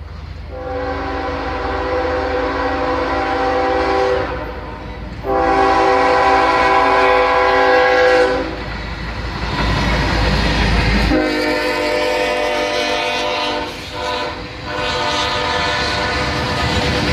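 CSX freight train's locomotive air horn sounding four long blasts, each a steady held chord of several notes. A heavy low rumble from the passing train swells between the second and third blasts.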